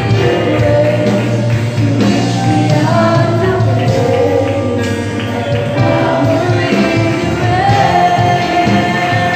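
A choir singing a gospel song with live band accompaniment, the voices holding long sustained notes.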